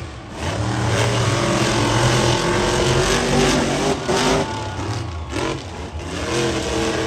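Monster truck engine revving hard under throttle, its pitch rising and falling, with brief dips partway through.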